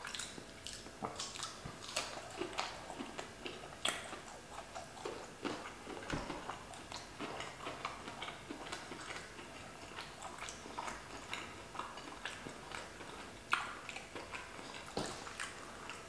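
Close-up chewing of a breaded plant-based chicken nugget in hot sauce: faint, irregular crunching and wet mouth clicks.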